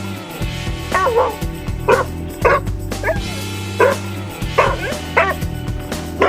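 A dog barking in short, yipping barks, roughly one a second, over background music with steady low notes.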